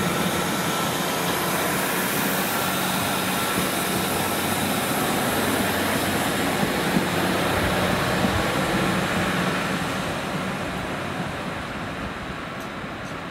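Northern Class 150 diesel multiple unit running past on the line and away, a steady diesel rumble with the noise of wheels on rail and a few sharper knocks around the middle. The sound fades over the last few seconds as the train recedes.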